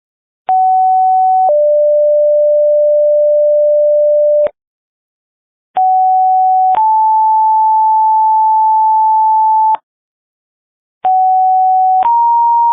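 Fire dispatch alert tones over the radio: three two-tone sequential pages, each a short steady beep of about a second that steps straight into a longer steady tone of about three seconds, with short silences between. The first page drops to a lower second tone, the next two step up to higher ones, and the last long tone is still sounding at the end.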